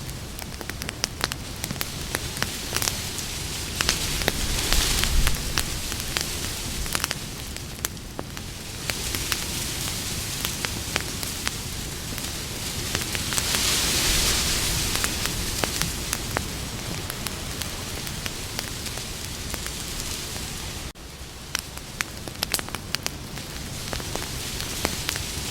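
Campfire crackling and popping with many small sharp snaps over a steady hiss, which swells louder twice, once near the middle. The sound drops out for an instant a few seconds before the end.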